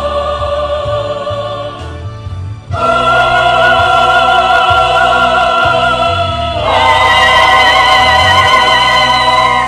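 Choir singing long held chords of an Indonesian gospel song, with vibrato. The chord swells louder about three seconds in and moves up to a higher held chord about two-thirds of the way through.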